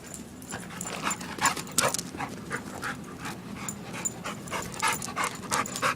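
A dog panting hard in quick, regular breaths, about three or four a second, after running.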